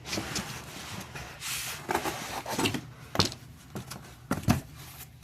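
Cardboard packaging and the fan parts inside it being handled and pulled out: rustling and scraping, with a few short knocks, the sharpest about three seconds and four and a half seconds in.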